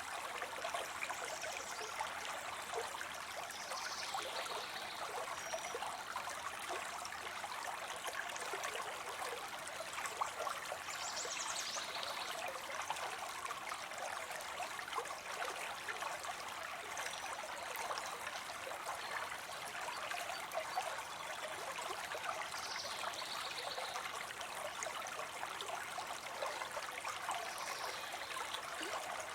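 Water spilling into a pond: a steady, even splashing and trickling of falling water, with a few brief faint high-pitched sounds over it.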